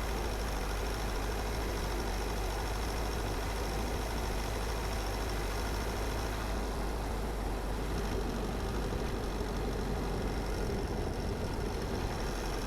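Car driving steadily, its engine and tyre noise making a constant low rumble.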